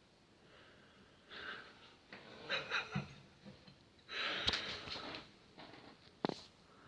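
A person's stifled, breathy laughter in bursts with snorts and gasps, and a sharp click near the end.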